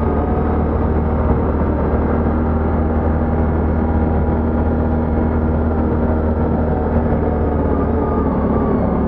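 ATV engine running at a steady speed while riding, its pitch nearly constant until it drops off at the very end.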